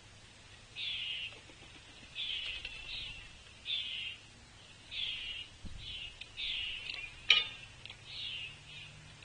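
A bird calling over and over: about eight short, harsh, buzzy notes, roughly one a second. A single sharp knock comes about seven seconds in and is the loudest sound.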